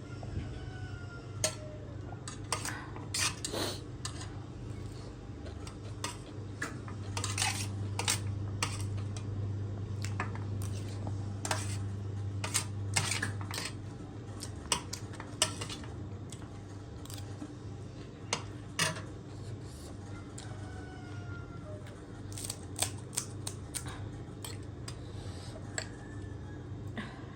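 Cutlery clinking against a dish during eating, as many scattered sharp clicks at an irregular pace, over a steady low hum.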